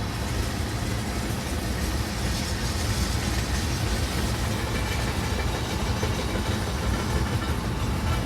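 Loaded freight tank cars rolling past on the rails, a steady rumble of wheels and cars.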